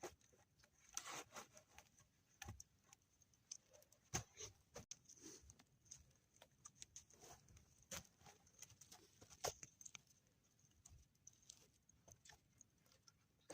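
Faint, irregular clicks and light taps, a few sharper ones scattered through, over a faint steady hiss.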